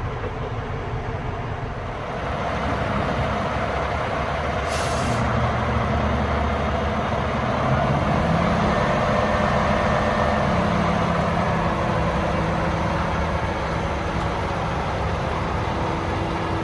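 Cummins X15 turbo diesel engine of a 2019 International HX620 dump truck running steadily, growing louder about two seconds in, with a short sharp hiss of air about five seconds in.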